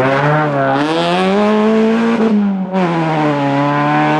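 Peugeot 206 RC rally car's four-cylinder engine accelerating hard, pitch climbing for about two seconds. It breaks off briefly with a gear change, then pulls on again at lower revs.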